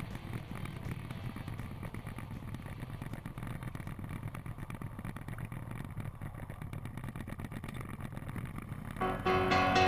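Harley-Davidson touring motorcycle's V-twin engine running low and steady as the bike rolls slowly toward a stop, with other motorcycles close by, heard from the rider's seat. Music comes in near the end.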